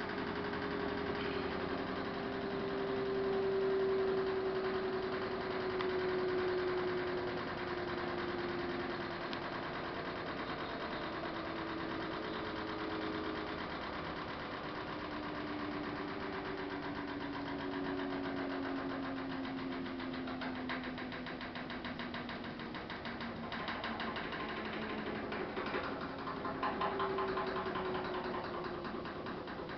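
Samsung WF448 VRT washing machine running: a steady mechanical hum made of several tones that slowly drift in pitch, with a rattle setting in over the last few seconds.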